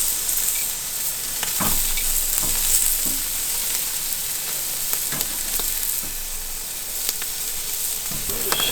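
Food sizzling steadily on the hot grate of a PK charcoal grill, with a few light knocks.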